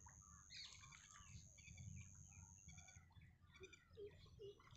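Faint rural ambience of scattered small bird chirps and calls, with a steady high-pitched whine that stops about three seconds in.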